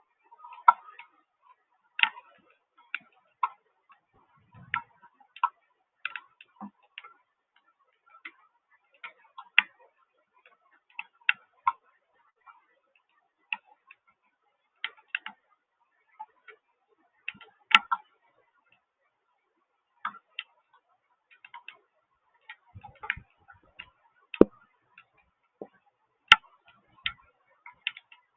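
Water drops falling onto a hard surface in sharp, irregular ticks, about one or two a second at uneven spacing, with no steady rain hiss between them.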